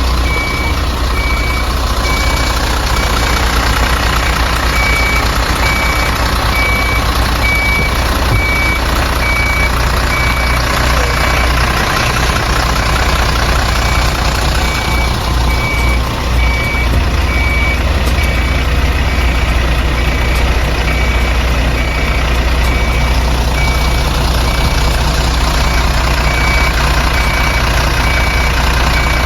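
Heavy excavation truck's engine running steadily under load, with its reversing alarm beeping in a regular on-off pattern that stops twice for a few seconds. The truck is towing a bogged motorhome out of soft grass.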